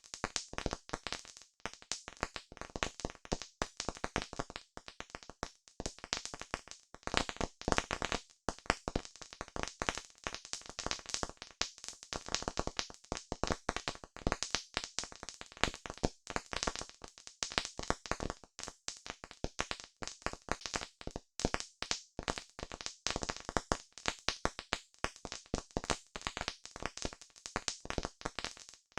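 Campfire burning wood, crackling steadily with a dense, irregular run of sharp pops and snaps.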